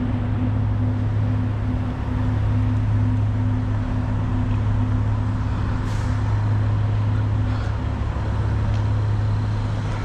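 Semi truck's diesel engine running steadily with an even low drone, and a faint click about six seconds in.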